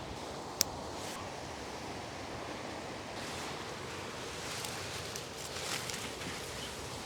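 Steady rushing noise of wind and flowing river water, with one sharp click about half a second in and a few brief rustles in the middle.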